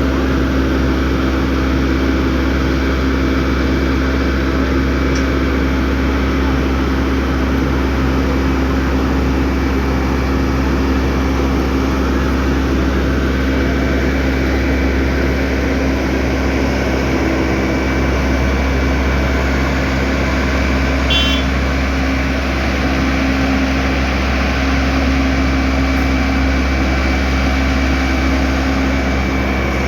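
Heavy diesel road-construction machinery running steadily, a constant engine hum with a low rumble.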